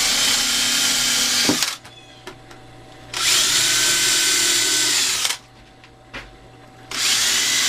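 Power drill running in three bursts of about two seconds each, drilling pilot holes up through the bottom of the seed tray into the wooden dowels.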